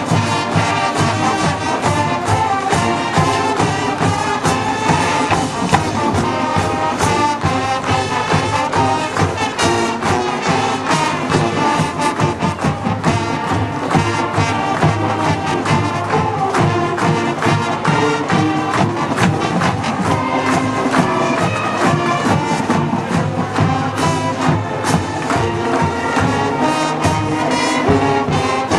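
A high school marching band playing: brass carrying the melody over a steady drum-line beat.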